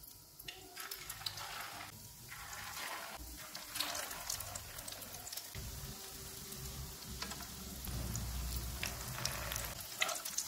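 Egg-coated potato and beef-mince kababs shallow-frying in hot oil in a nonstick pan, sizzling and crackling steadily, the sound dipping out briefly a few times early on.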